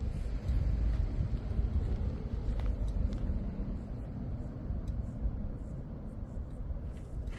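Steady low rumble of water pouring through the opened dam spillway gates, a continuous roar-like noise heaviest in the bass.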